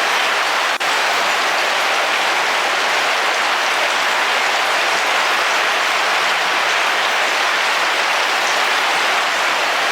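Heavy rain falling steadily on a car roof, an even hiss that dips out for a split second about a second in.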